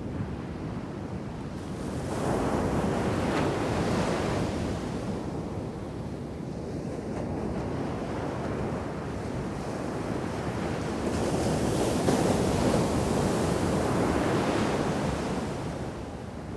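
Ocean waves crashing in a heavy shore break on a sand beach: two waves break about ten seconds apart, each a surge of rushing surf that swells and then dies away.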